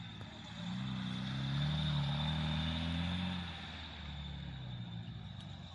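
A distant engine drones, growing louder about a second in and fading after about three and a half seconds, over a steady hiss.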